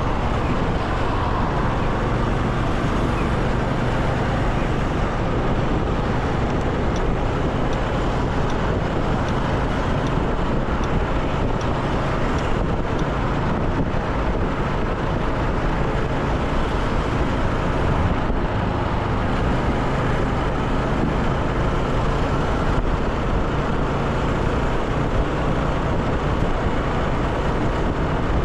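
Motorcycle riding along a road: the engine gives a steady low hum under continuous road and wind noise, with no big changes in speed.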